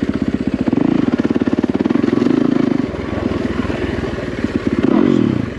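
Yamaha WR450F dirt bike's single-cylinder four-stroke engine running while being ridden, its revs rising and falling with the throttle, with a quick rev about five seconds in.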